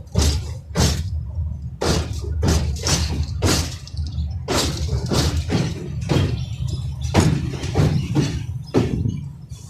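Moving passenger train: a steady low rumble with irregular loud clanks and rattles from the wheels and carriage, about two a second.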